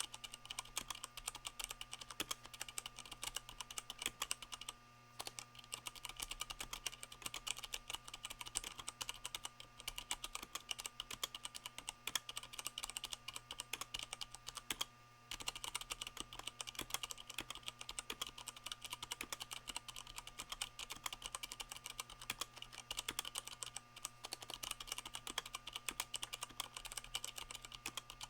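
Fast, continuous typing on a Leopold FC660M mechanical keyboard with Cherry MX Brown switches and O-rings that damp the keycaps' bottoming out. The run of keystrokes breaks off briefly twice, about five seconds in and again around fifteen seconds in.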